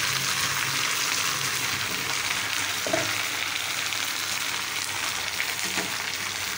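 Cut okra and green chillies frying in hot mustard oil, a steady sizzling hiss.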